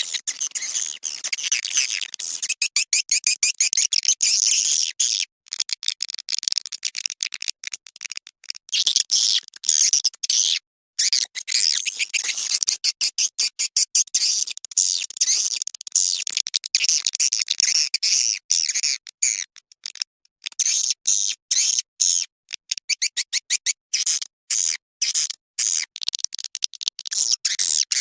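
Swiftlet lure-call recording, the kind played to draw swiftlets into a nesting house: dense, rapid, high chirping and twittering, chopped into quick pulses with short breaks.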